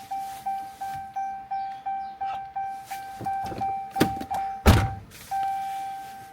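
An electronic chime beeping quickly and evenly, about three beeps a second, then holding one steady tone for about the last second. Two heavy thuds come about four seconds in, the second one the loudest sound.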